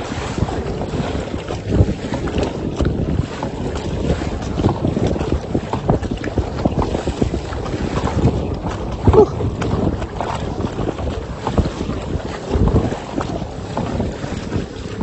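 Wind buffeting the microphone out on open water, an uneven low rumbling that rises and falls in gusts.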